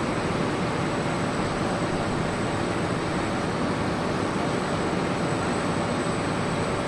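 Steady mechanical noise of running engines, even and unbroken, with a thin high whine running through it.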